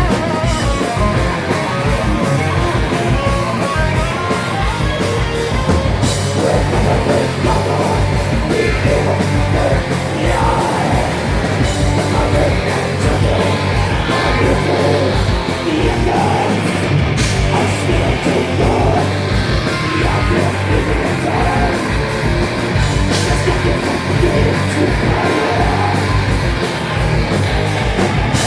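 Live rock band playing loud, heavy distorted music: electric guitars over fast, steady kick-drum hits, with no break in the playing.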